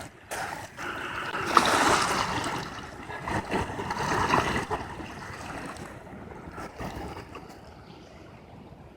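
Rushing river water, swelling loudest for a few seconds and then fading, with a few footsteps on the trail at the start.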